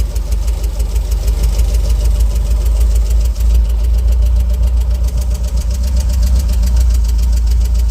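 UAZ Bukhanka van engine idling steadily, close by.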